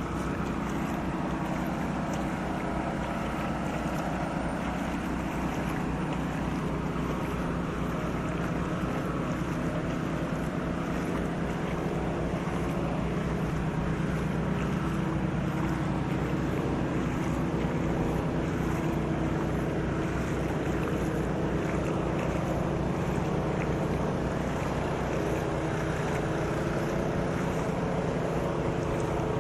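A steady engine hum under a constant wash of noise, unbroken throughout.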